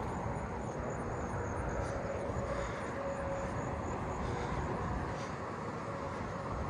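Steady low outdoor rumble, like distant traffic, with faint high-pitched insect calls, a thin steady tone and small regular pulses, running above it.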